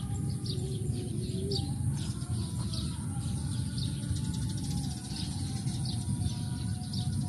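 A small bird chirping over and over, short high chirps at irregular intervals of about half a second to a second, over a steady low outdoor rumble.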